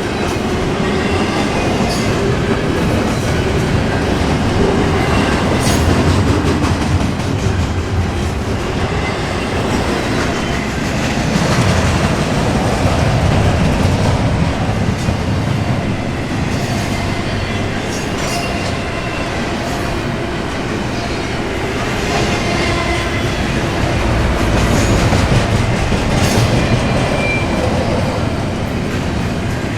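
Intermodal container cars of a freight train rolling past, a steady rumble of steel wheels on rail with repeated clicks over the rail joints and a faint high wheel squeal now and then.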